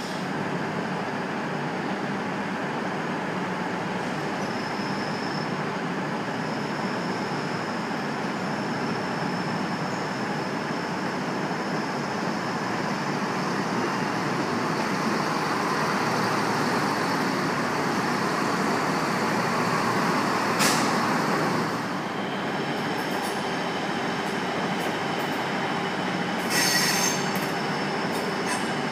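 A train running along a station platform, a steady rumble that builds up through the middle, with a thin high wheel squeal on and off. A sharp click about two-thirds through and a short hiss near the end.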